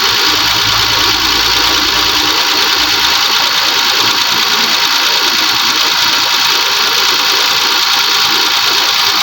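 Car engine idling steadily with a constant noisy running sound; a low hum underneath drops away about three seconds in. The mechanic suspects the engine's head gasket is blown.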